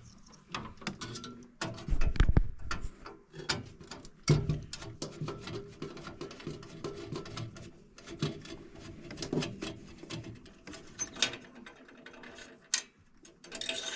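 Irregular clicking and clattering of hand tools and metal parts being handled, with a heavier thump about two seconds in.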